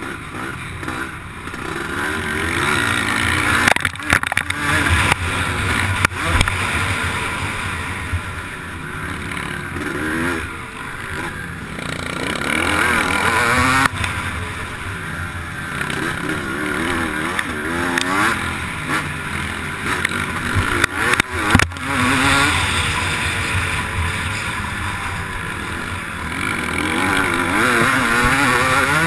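MX1-class motocross bike's engine revving up and falling back again and again under race load, with a few sharp knocks along the way.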